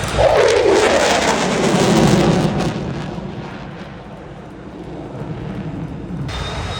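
A fixed-wing aircraft at an airshow passing by fast: its sound comes in suddenly and the pitch falls steadily as it goes past, then it fades away.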